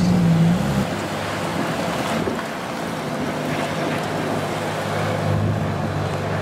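A supercar's engine note that stops about a second in, followed by a steady rushing noise with a low engine hum underneath.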